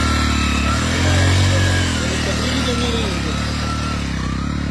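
Hero Honda motorcycle's single-cylinder four-stroke engine pulling away under the load of three riders. It revs up about a second in, then runs steadily and eases off slightly as the bike moves away.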